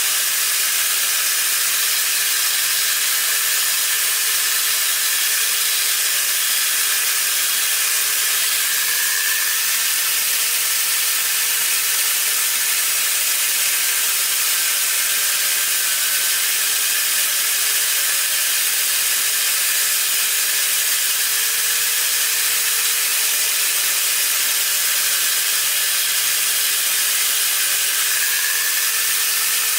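Steady, even hissing noise that neither starts nor stops, with a faint low hum that wavers slightly in pitch underneath.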